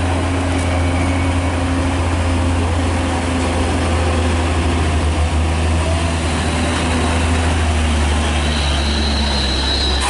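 A heavy truck's engine running steadily under load, a deep unbroken drone.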